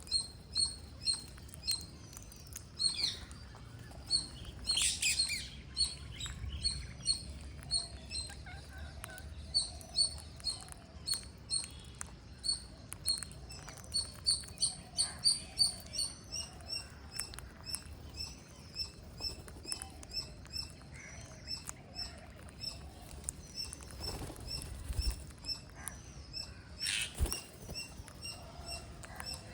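Birds chirping: a regular series of short, high chirps, about three a second, broken by a few louder, harsher calls a few seconds in and again near the end.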